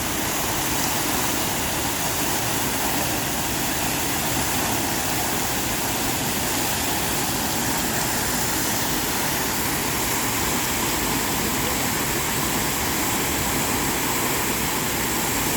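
Waterfall: water pouring and rushing steadily in an even, unbroken noise.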